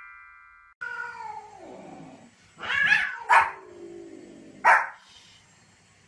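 A cat yowls in long, falling moans while a small white spitz-type dog barks sharply twice, about halfway in and again about a second and a half later. A chime from the countdown card fades out at the very start.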